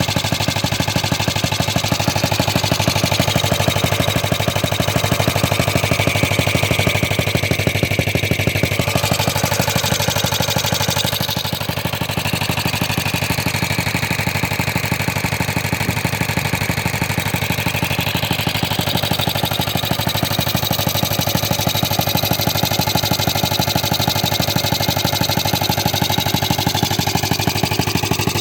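Old Briggs & Stratton washing machine engine, a small single-cylinder four-stroke, running steadily at an even speed with a fast, regular beat of firing strokes.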